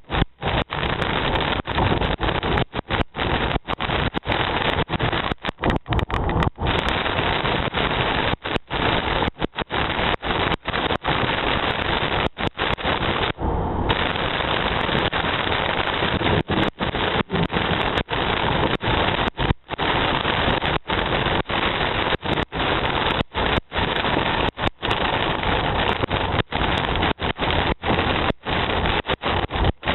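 Heavy rain with wind buffeting the microphone: a loud, steady rush that cuts out for a split second many times over.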